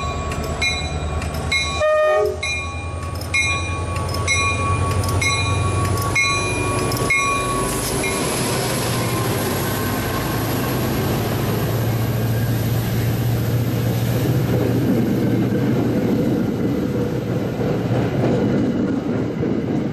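Train at a station platform: a bell clangs about once a second for the first seven seconds, then the steady rushing noise of the train going by fills the rest.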